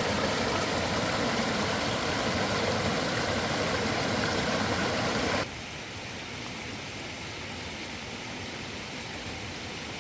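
Steady rushing noise with no distinct events, which drops abruptly to a quieter steady noise a little past halfway, as at a cut.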